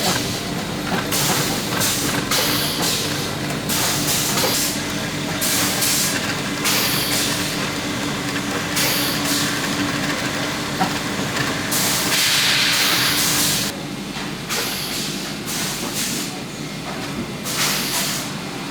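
Boot-making workshop machinery running with a steady hum, with repeated short bursts of hiss every second or two.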